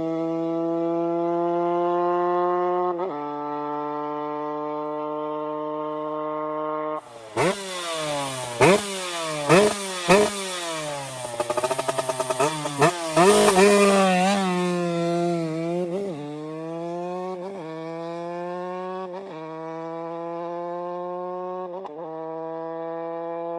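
TM SMR 125 Fi two-stroke motorcycle engine through a Katrace exhaust, running at high revs. Its steady note shifts in steps for the first seven seconds. Then comes a louder, raspier stretch of sharp throttle blips, revs rising and falling quickly for about nine seconds. After that the pitch climbs again and again, dropping slightly every couple of seconds as gears are changed.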